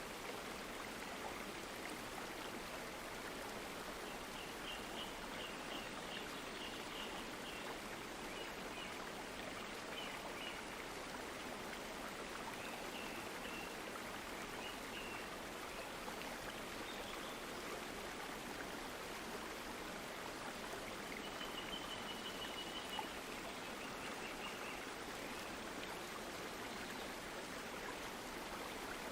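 Steady running water of a stream flowing. A few faint, short high trills come and go above it.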